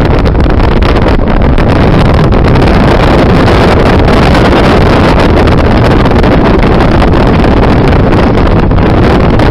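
Strong blizzard wind buffeting the microphone: a loud, steady rushing noise with no let-up.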